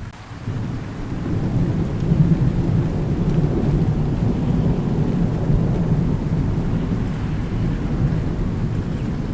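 Thunder rolling and rumbling deep over steady rain, swelling about a second in and carrying on.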